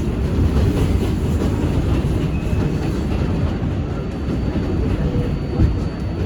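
R188 subway train running between stations: a steady rumble of wheels on rail, with a faint steady high whine above it.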